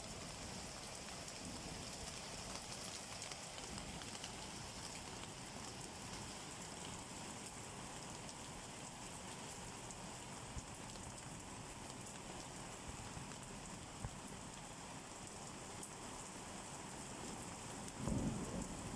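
Steady rain falling, an even hiss of drops. There is one sharp tick about fourteen seconds in and a brief low thump near the end.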